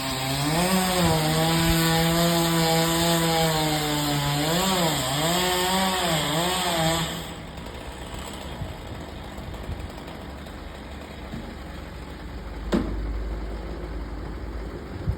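Chainsaw running at high revs while cutting wood, its pitch dipping and recovering several times as the chain bogs in the cut. It stops abruptly about seven seconds in. After that there are two sharp knocks, one about 13 s in and one near the end.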